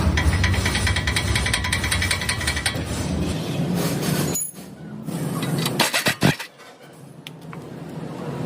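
A power tool hammering rapidly with a steady whine for about three seconds, then stopping. A few sharp metal knocks follow about six seconds in.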